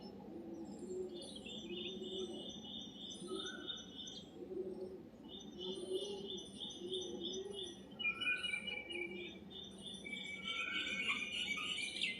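White-eared bulbuls chirping: several high calls overlap, with rapid pulsed trills and short whistled notes that grow busier and louder near the end. A low note repeats underneath, roughly once a second.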